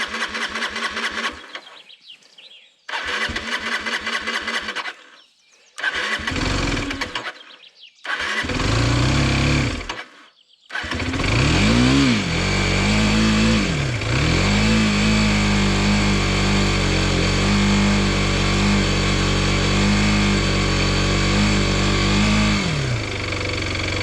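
Derbi Terra 125 motorcycle's single-cylinder engine being cranked on the electric starter in several short attempts, catching briefly and dying, then starting after about eleven seconds. It is revved twice and then left idling.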